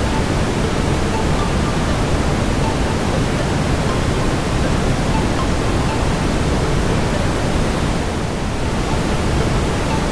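Steady brown noise, a deep even rushing hiss heaviest in the low end, with faint scattered crackles of a wood fire mixed in.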